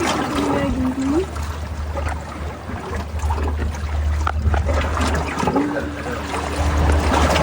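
Water splashing and trickling over a steady low rumble.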